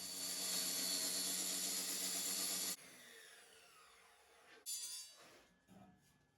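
A handheld power tool runs steadily for nearly three seconds, then is switched off and spins down with a falling whine. A short knock follows about two seconds later.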